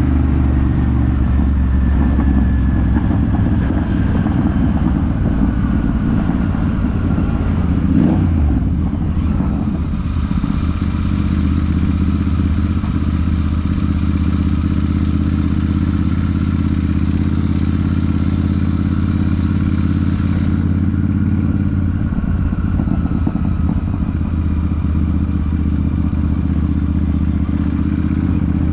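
Royal Enfield Super Meteor 650's 648 cc parallel-twin engine and exhaust running steadily under way, heard from the bike itself, with a brief change in the engine note about eight seconds in.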